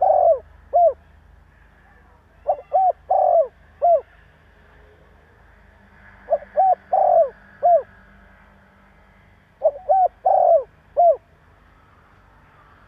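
Spotted dove cooing its song: phrases of four or five short, arched coos, the last one falling, repeated four times about every three seconds.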